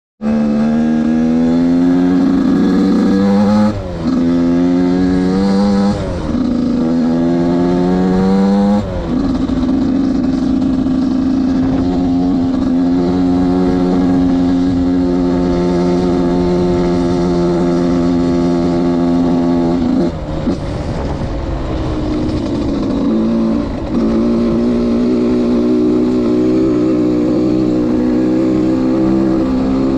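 Suzuki RM85 two-stroke motocross bike accelerating hard, its engine pitch climbing and dropping suddenly three times as it shifts up through the gears. It then holds a high steady note, with brief dips about two-thirds of the way through as the throttle is eased off and opened again.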